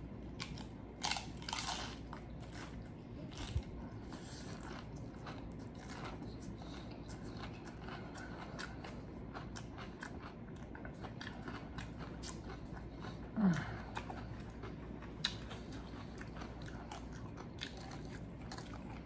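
Close-up crunching and chewing of tortilla chips loaded with shrimp ceviche, with the loudest crunches between one and two seconds in and small crackly chews throughout. A short low hum from the eater about two-thirds of the way through.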